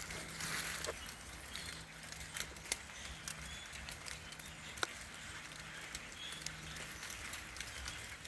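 Beech nuts dropping from the trees and landing in the leaf litter as scattered single ticks, with a few faint short chirps from the flock of birds feeding overhead.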